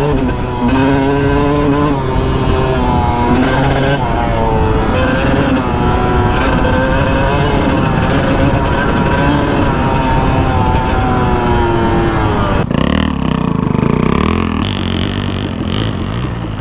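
Honda CR250R two-stroke dirt bike engine on the trail, its pitch rising and falling with the throttle through the gears. About three-quarters of the way through it suddenly drops off the throttle to a lower, rougher rumble.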